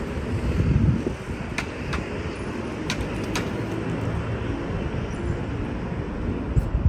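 Outdoor street traffic: a steady rumble of passing road vehicles, with a few light clicks a couple of seconds in.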